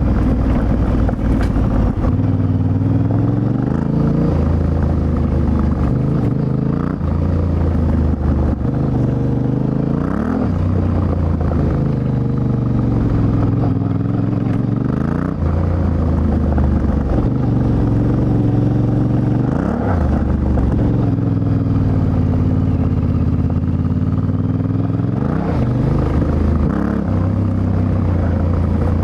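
Yamaha Ténéré 700's 689 cc CP2 parallel-twin engine under way, its pitch climbing and dropping again and again, about every five seconds, as the rider accelerates, shifts and rolls off through a run of bends.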